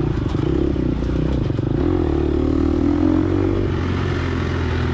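Gas Gas EX250F dirt bike's 250 cc four-stroke single running under load while riding a trail, holding a fairly steady pitch that wavers a little.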